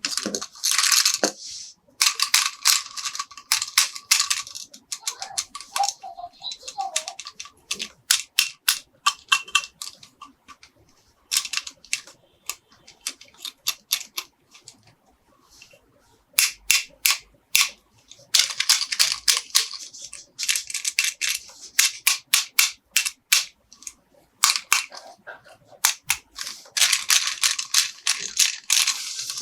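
Close-up handling of plastic toy packaging and toy parts: stretches of crinkling and rustling, broken up by many quick, sharp clicks and snaps.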